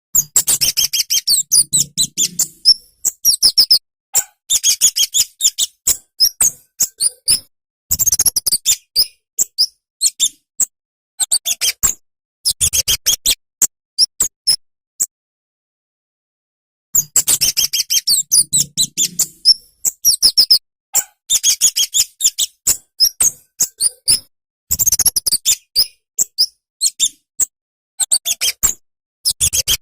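Kemade (cabe-cabean) flowerpecker twittering: rapid, high-pitched chattering notes in bursts of two to three seconds, broken by short gaps and one longer pause near the middle.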